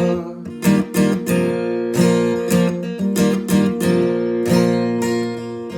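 Acoustic guitar strummed in a steady rhythm, about three strums a second, with the chords ringing on between strokes.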